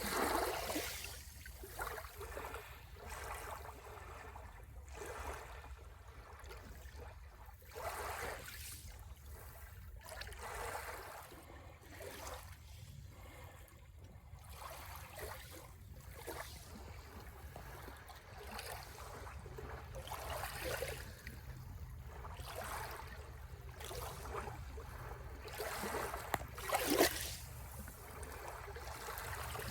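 Small waves washing and lapping on the shore, one rush of water after another every few seconds over a steady low rumble, with a louder splash near the end.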